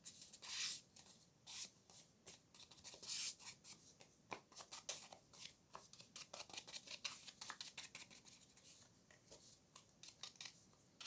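Faint, quick scraping strokes of an ink pad swiped along the edges of paper cards to ink them, coming irregularly with a few longer, louder swishes.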